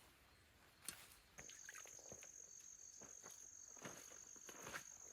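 A faint insect trill: one steady, high-pitched tone that starts about a second and a half in and holds without a break. A few faint clicks sound through it.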